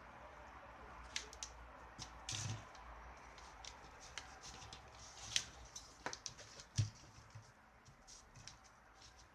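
Scattered light clicks and taps of small hard objects being handled, irregular, with two louder knocks in the middle, over a faint steady hum.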